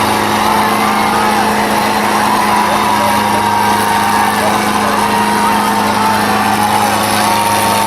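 Diesel tractor engines running at a steady, loud drone, with a thin, wavering, higher tone above it.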